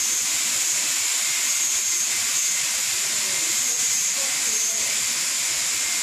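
Automatic industrial ultrasonic cleaning machine running with a steady, high hiss.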